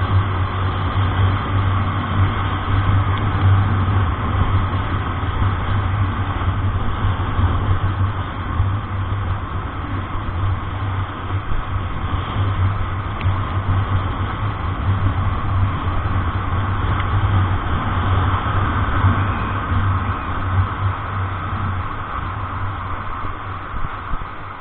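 Steady engine drone and road noise heard from inside a moving vehicle's cab, easing slightly near the end.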